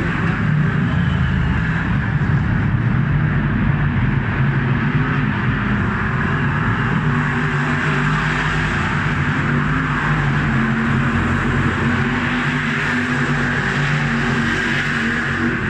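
V8 stock car engines running hard as the cars race round an oval, a steady, loud engine drone with tyre and track noise.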